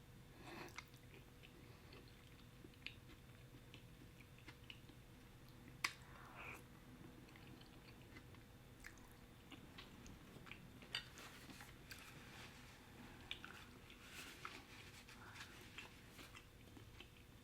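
Faint chewing of shrimp Alfredo pasta: scattered small mouth clicks, with one sharper click about six seconds in.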